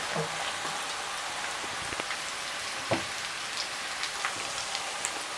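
Diced pumpkin and onion frying in hot vegetable oil in a frying pan: a steady sizzle with small crackles, and one sharper click about three seconds in.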